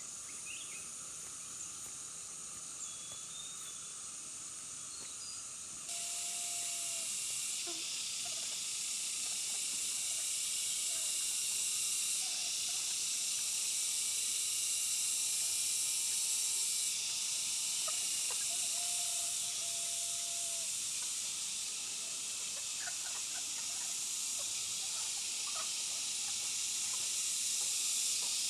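A steady, high-pitched outdoor hiss with a few faint, brief chirps. It jumps abruptly louder about six seconds in.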